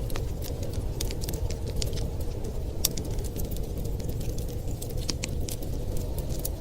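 Wood fire crackling with frequent, irregular sharp pops over a steady low rumble of storm wind.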